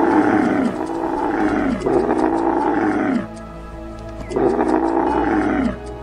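Tiger roaring three times, each roar a long call that falls in pitch, over background music.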